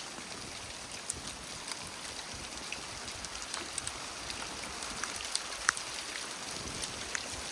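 Rain with hail setting in: a steady hiss with scattered sharp ticks of stones striking.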